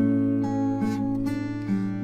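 Acoustic guitar strummed as the accompaniment to a slow song, heard between two sung lines.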